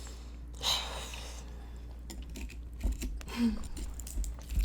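Close-miked eating: soft chewing with scattered light clicks of utensils or food containers. A brief hissing rustle comes just under a second in.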